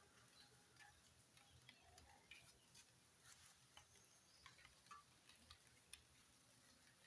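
Near silence with faint, irregular ticks and clicks scattered through it.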